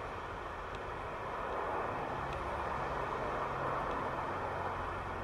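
A car being driven, with a steady blend of road and engine noise and no sudden events.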